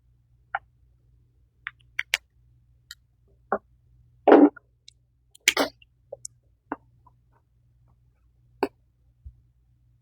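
Coloring markers working on paper: irregular short taps and strokes, with a louder one about four seconds in and another about five and a half seconds in.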